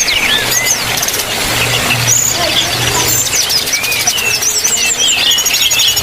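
Several small caged birds chirping and twittering, a quick run of short calls and sweeping whistles, over a low hum that comes and goes.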